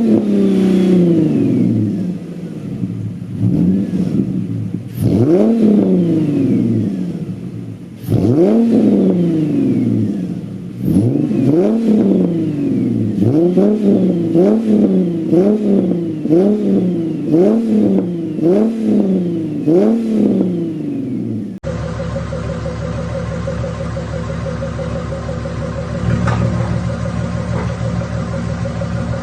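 Ford Mustang 4.0 V6 engine revved again and again through its exhaust, each rev rising and then falling back. A run of quick blips follows at about one a second. After a sudden change to a different car, another 4.0 V6 Mustang idles steadily, and a rev starts near the end.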